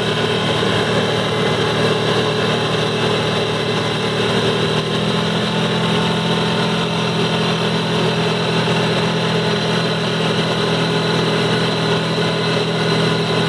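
ATV engine running steadily, its note shifting slightly about five seconds in.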